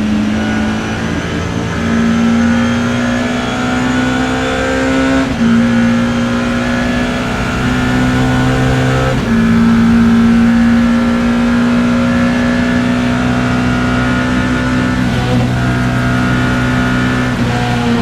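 BMW E30 M3's four-cylinder racing engine heard from the cockpit, accelerating hard through the gears. Its pitch climbs and drops sharply at upshifts about five and nine seconds in, then holds more steadily with a further dip and climb near the end.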